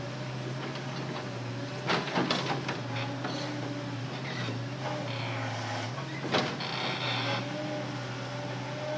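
Hitachi Zaxis excavator running steadily, its engine hum under a faint hydraulic whine, with sharp knocks and clatter about two seconds in and again near six seconds and a hiss in between while it works loading logs.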